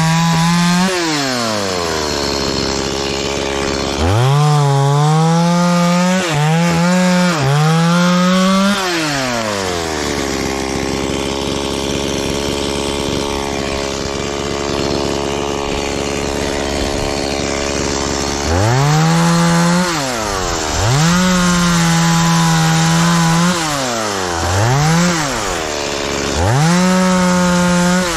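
Two-stroke chainsaw cutting aini (wild jack) wood in repeated bursts at full throttle, dropping back to idle between cuts. There is a long stretch of idling in the middle.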